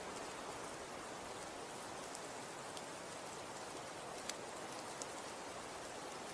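Snow falling: a steady hiss of precipitation with scattered light ticks of flakes landing, one a little sharper about four seconds in.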